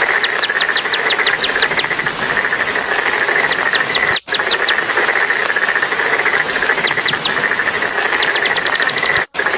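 A small songbird singing runs of quick, high, downward-sweeping notes, several notes to a run, over a steady high insect drone such as crickets. The sound cuts out briefly twice.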